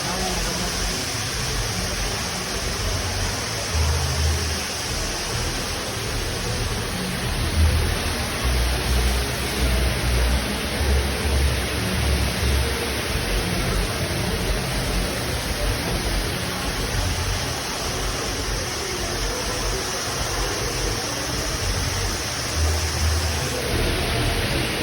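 Waterfall rushing as a steady, even noise, with irregular low rumbling underneath.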